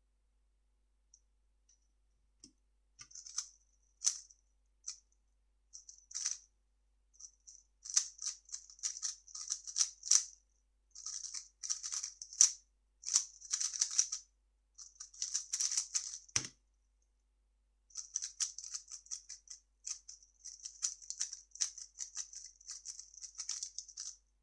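A 3x3 speed cube being turned fast, its plastic layers clicking and rattling in quick bursts for about thirteen seconds, then a single sharp thud. After a short pause the rapid turning starts again.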